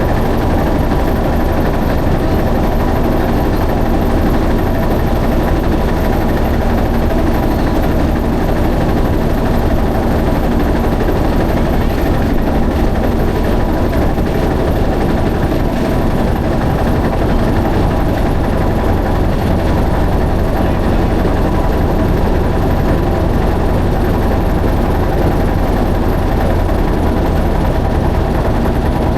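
A boat's engine running steadily at an even, unchanging pitch.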